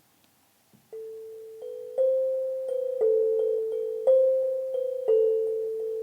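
Slow keyboard music, an electric-piano-like tone: after about a second of near silence, notes in a middle register are struck roughly once a second, each dying away before the next.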